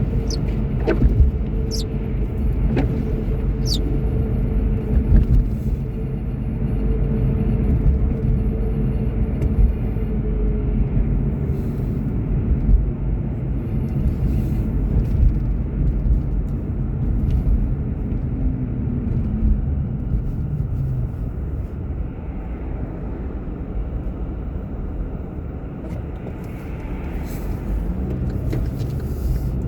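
Car driving: steady road and engine rumble, with a running tone that slowly falls in pitch partway through as the car slows. A few sharp clicks or creaks in the first few seconds.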